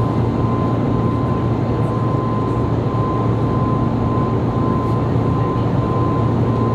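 Steady cabin noise of an Airbus A321neo in flight: an even rush of airflow over a low engine drone, with a thin steady whine running through it.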